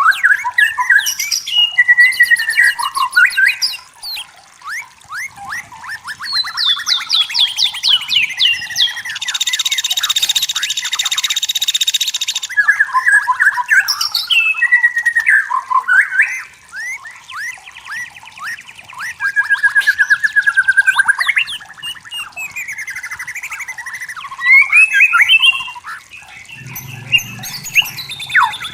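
White-rumped shama singing a long, varied song of rapid trills, whistled phrases and sliding notes. About nine seconds in comes a harsh, buzzing rattle lasting about three seconds.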